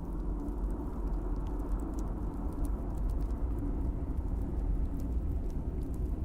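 Log fire burning in a fireplace: a steady low rumble of flames with scattered small, sharp crackles and pops from the burning wood.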